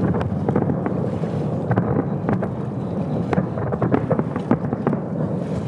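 Fireworks display: a dense, steady low rumble of shell bursts with many sharp cracks scattered irregularly through it.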